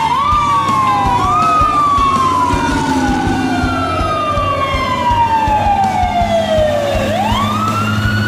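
Electronic fire truck siren of a toy fire truck wailing: a tone that slides slowly down for several seconds and then sweeps quickly back up about seven seconds in. A second siren tone overlaps it in the first second and a half, over light clicking.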